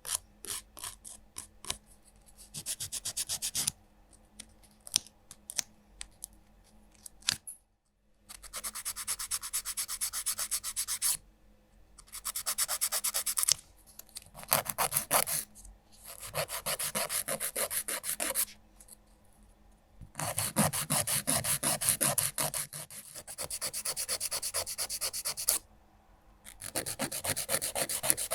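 A nail file rasping over fingernails, first in slower separate strokes, then in long runs of rapid back-and-forth strokes broken by short pauses.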